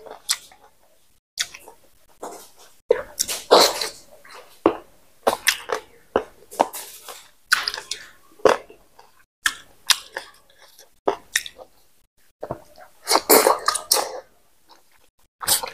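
Close-miked chewing of fatty pork and rice eaten by hand: irregular wet mouth smacks and squelches in quick clusters with short pauses between them.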